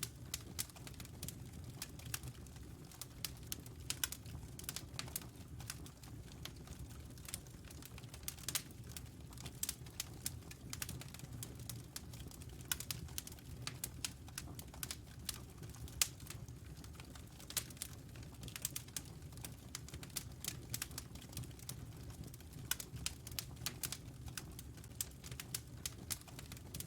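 Wood fire burning in a fireplace: irregular sharp crackles and pops, several a second, over a low steady rumble of flames.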